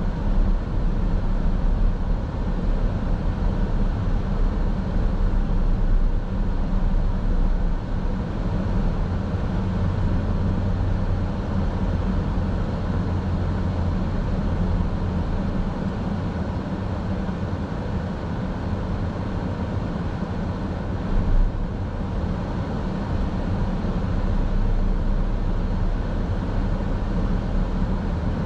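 Steady road and engine rumble of a car driving, heard from inside the cabin, with a brief bump about 21 seconds in.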